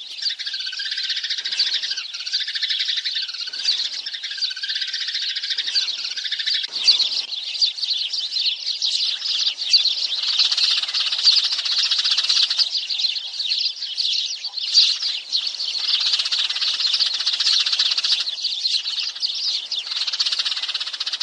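A flock of sparrows chirping, a dense chatter of many overlapping chirps. For the first several seconds a call pattern repeats about once a second, then the chatter grows thicker and more continuous.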